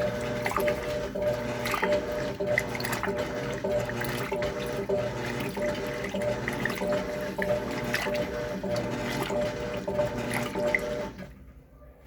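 Electrolux LTC10 top-loading washing machine agitating a full load of clothes and blankets in a high water level on its heavy-soil wash: a steady motor hum with water churning and sloshing in repeated strokes. The agitation stops about eleven seconds in.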